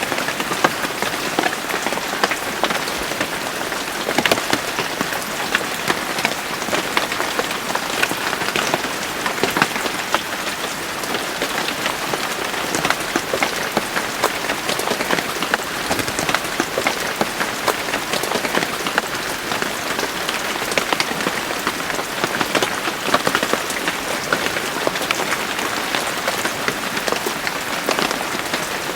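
Steady rain falling, a dense patter of many individual drops striking a hard surface.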